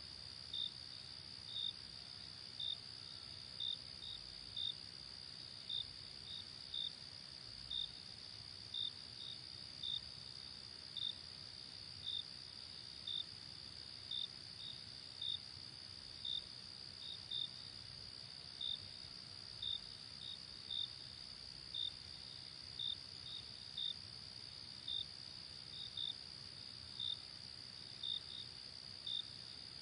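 Night crickets: a steady high trill with a louder chirp repeating roughly once a second, sometimes in quick pairs, over a faint low background hiss.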